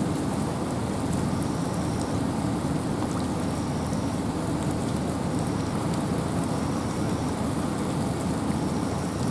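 Steady rain and wind in a forest: an even, unbroken rushing hiss with faint patter of drops. A faint, short high-pitched tone recurs about every two seconds.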